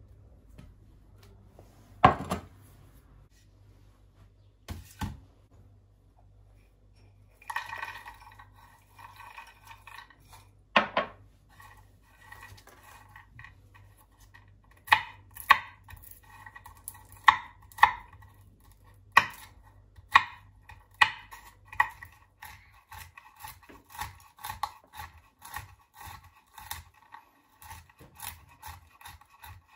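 Kitchen work: a sharp knock about two seconds in, then a knife chopping on a cutting board in irregular strokes from about halfway, coming faster near the end.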